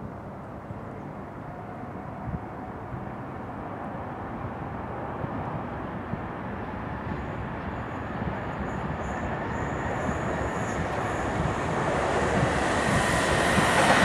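Sr2 electric locomotive hauling a passenger train, pulling away and drawing nearer. The rumble of the train grows steadily louder throughout, and faint high squealing tones join in about halfway through.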